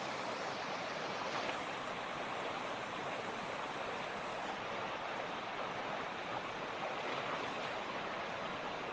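Mountain creek water rushing and splashing over stones, a steady, even flow.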